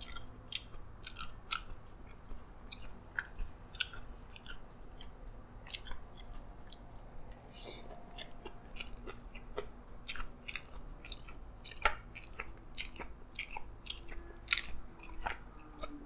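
A person chewing and biting a mouthful of yee sang, a raw-fish salad with crispy bits, with many short crisp crunches scattered irregularly through the chewing.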